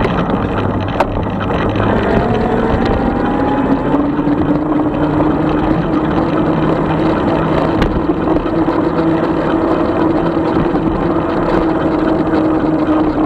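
Riding noise from a 36-volt electric bike: a steady motor whine that climbs a little in pitch about three seconds in and then holds, over a rumble of wind and road noise.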